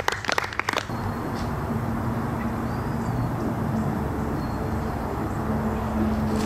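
Steady outdoor background noise with a constant low hum and a few faint, short, high chirps, after brief voices in the first second.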